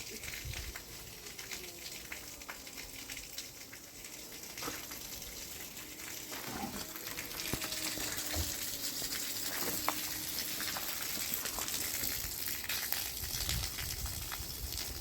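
Water gushing and splashing, growing louder about six seconds in, with a few light knocks.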